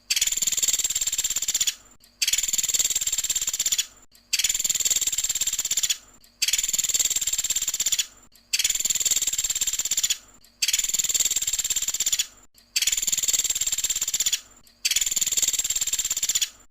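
Pelatuk sampit, a small woodpecker, giving its rapid, high trilling call (the "tembakan" call used as masteran). Each trill lasts under two seconds and repeats about every two seconds with a short pause, about eight times.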